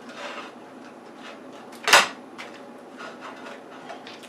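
One sharp knock about two seconds in, as something is set down on a cutting board, among light handling clicks and rustles.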